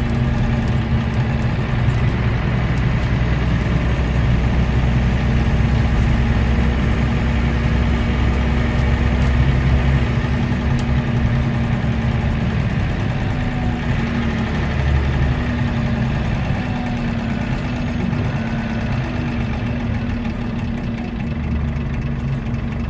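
Scania DC9 nine-litre five-cylinder diesel engine of a Euro 3 bus running at a steady speed.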